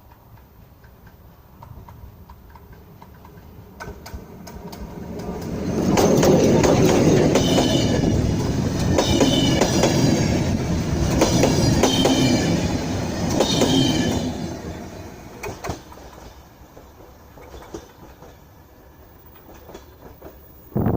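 A train passing close by, its wheels clattering over the rails. It builds from about four seconds in, is loudest through the middle, then fades away.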